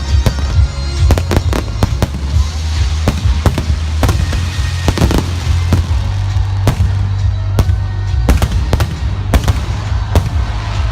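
Fireworks display going off in a rapid, irregular run of bangs and crackles, over loud music with a heavy bass.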